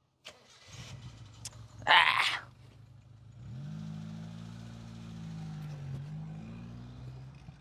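A car's engine running, with a loud, harsh burst of noise about two seconds in, then a steadier engine hum from about halfway through as the car moves off.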